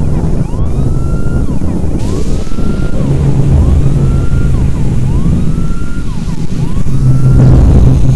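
Siren wailing, its pitch rising and falling about once a second, over a loud low rumble.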